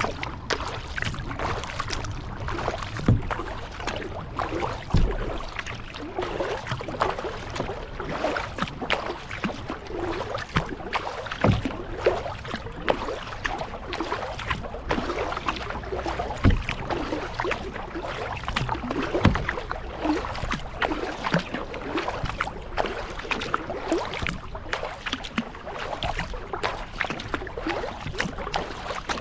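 Kayak paddling: the paddle dipping and pulling through lake water with steady splashing and dripping, and a few low thumps.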